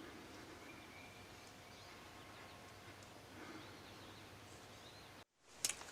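Faint outdoor woodland ambience with scattered small bird chirps. Near the end it drops abruptly to silence, followed by a sharp click.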